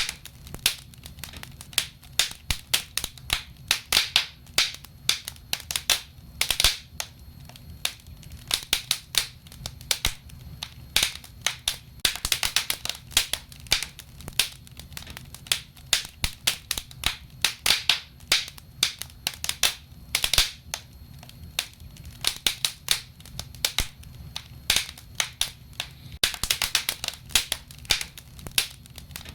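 Wood burning in a fireplace: logs crackling and popping in dense, irregular snaps, with a faint steady low hum underneath.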